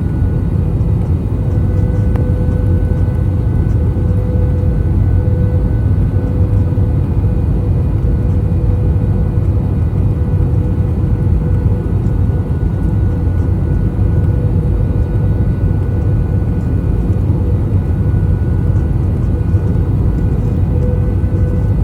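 Steady cabin noise inside an Airbus A321 on final approach: a low rumble of airflow and its IAE V2533-A5 turbofan engines, with a faint steady whine over it.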